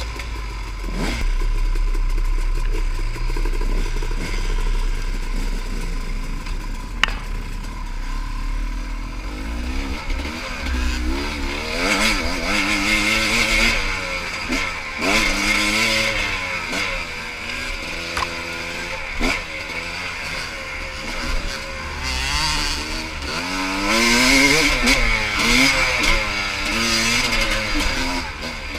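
Small single-cylinder pit bike engine being ridden, its pitch repeatedly rising and falling as the rider revs up and backs off through the gears, from about ten seconds in. Before that a steady low rumble, with one sharp click about seven seconds in.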